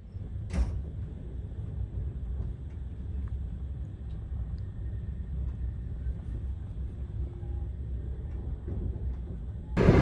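Low, steady rumble of a train carriage, with one sharp knock about half a second in. Just before the end it jumps abruptly to much louder rolling train noise.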